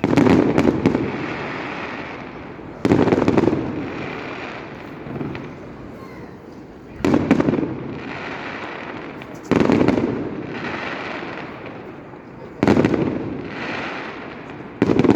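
Fireworks display: aerial shells going off with sudden loud bangs every two to four seconds, six in all, each followed by crackle that fades away before the next.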